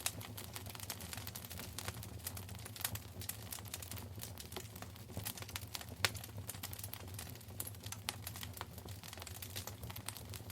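Wood fire in a fireplace crackling: quick irregular pops and snaps over a low steady rumble, with one louder snap about six seconds in.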